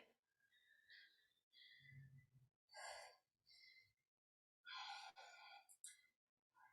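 Near silence, broken by a few faint breaths, one about three seconds in and a longer one about five seconds in, from a person working through dumbbell overhead presses.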